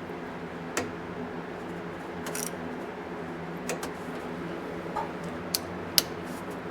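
Scattered sharp metallic clicks and taps, about half a dozen, coming closer together near the end, from hand work on the carburetor of a vintage VW bus engine, over a steady low hum.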